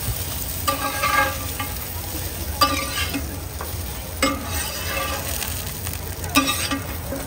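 Bite-sized pot stickers sizzling as they pan-fry, with a metal spatula scraping and turning them in four short strokes about two seconds apart. A steady low rumble runs underneath.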